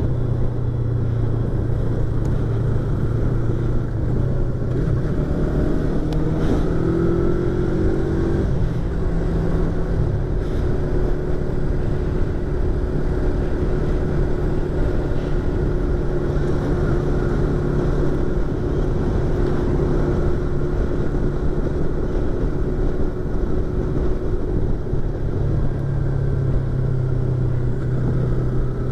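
Yamaha YZF-R25's parallel-twin engine running under way, heard through a microphone inside the rider's helmet. The engine note changes about eight seconds in and again near the end.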